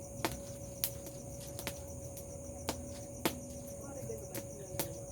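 Bonfire crackling, with sharp pops coming at irregular intervals, over a steady high-pitched chorus of crickets.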